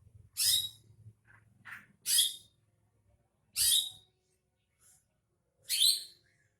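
Greater green leafbird (cucak hijau) giving short, bright, loud calls, four strong ones about a second and a half apart with a few fainter notes between; a lure song meant to make a caged leafbird start singing.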